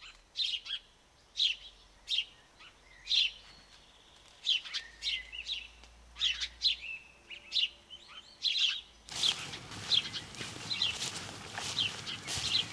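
Small birds chirping in short, high calls about once a second, some in quick pairs. About nine seconds in, a steady outdoor hiss comes in under them and the chirps grow more frequent.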